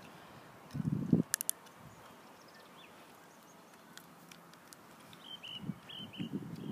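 Quiet evening outdoor ambience. A small bird gives four short high chirps near the end, and there are low soft thuds about a second in and again near the end.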